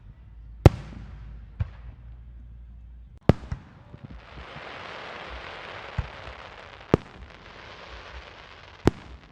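Fireworks going off: about seven sharp bangs spread through, with a steady hiss from about four seconds in until just before the end.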